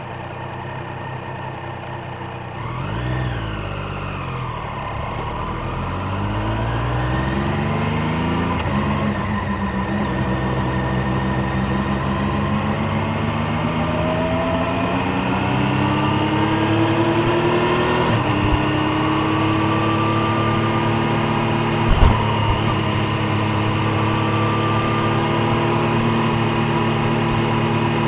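Triumph Street Triple 765 Moto2 Edition's three-cylinder engine and exhaust. It gives a quick rev blip a few seconds in, then pulls up through the gears: the pitch climbs and drops sharply at each upshift, twice, before settling into a steadier, slowly rising run. A short knock sounds about 22 seconds in.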